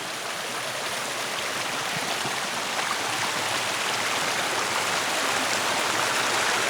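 Rushing water of the Maniava waterfall and its mountain stream, a steady noise that grows gradually louder.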